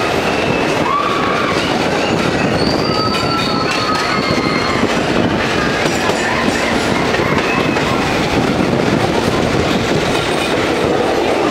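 Passenger train running through a rail tunnel: a loud, steady rumble and rattle of the coaches and wheels, closed in by the tunnel walls. Several drawn-out high squeals rise over it and fade again.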